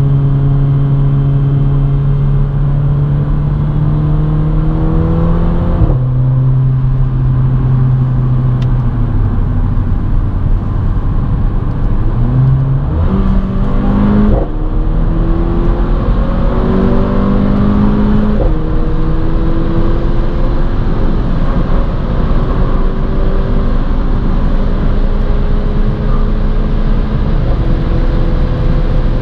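Car engine heard from inside the cabin under hard acceleration at high speed. Its pitch climbs slowly through the tall gears and drops back at several gear changes, over steady road and wind noise.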